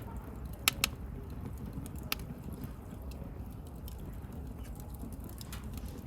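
Wood bonfire burning, with a steady low rumble of flame and sharp crackling pops from the burning wood: two close together under a second in, another about two seconds in, and a fainter one near the end.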